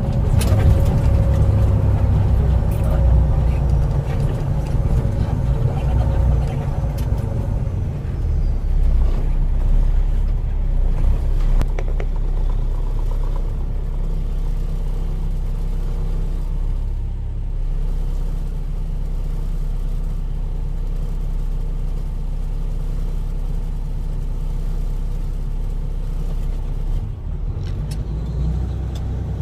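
Heavy truck's diesel engine running as the truck drives, a steady low rumble, louder and busier for the first several seconds and then evening out.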